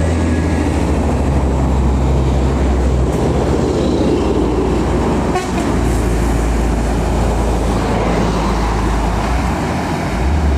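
Heavy road vehicles, buses and trucks, passing close by with a loud, steady low diesel engine rumble, and a vehicle horn tooting.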